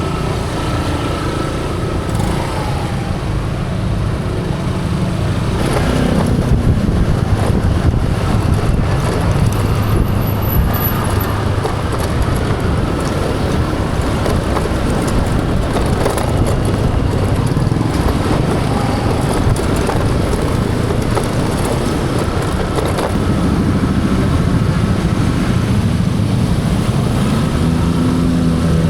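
Motor scooter engine running on the move, its pitch stepping up and down as speed changes, over a steady rush of road noise. It gets louder from about six seconds in.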